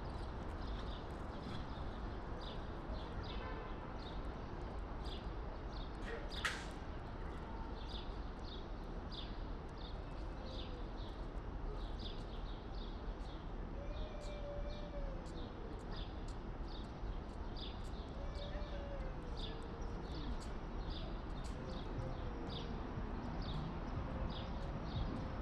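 Small birds chirping: short high chirps repeated about twice a second over a steady background hiss, with a few fainter wavering calls in the second half and one sharp click about six seconds in.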